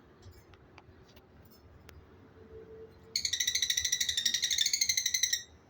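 Lovebird giving a rapid, even high-pitched trill for about two seconds, starting about three seconds in, after a few faint short chirps.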